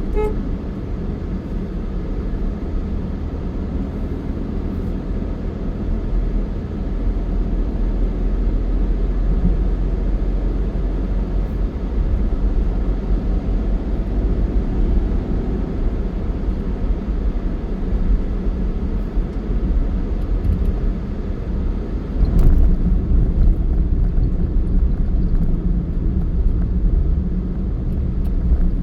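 Steady low rumble of a moving vehicle, engine and road noise. A brief knock comes about three-quarters of the way through, after which it is slightly louder.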